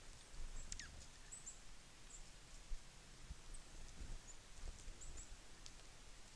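Small songbirds at a feeder giving faint, scattered high chips and short calls, with one falling whistle under a second in, over soft low knocks and thuds.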